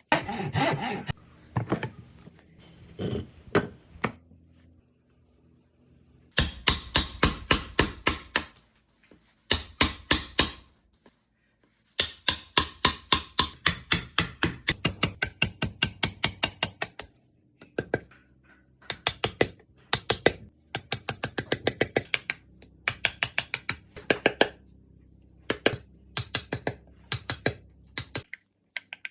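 Wooden carving chisel driven into wood with rapid mallet taps, about four to five strikes a second, in runs of a few seconds with short pauses between them.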